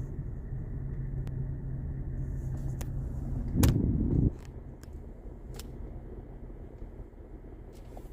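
Car engine idling, heard from inside the cabin as a steady low rumble with a hum. A few light clicks come through, and about three and a half seconds in there is a louder low surge lasting under a second, after which the rumble is quieter.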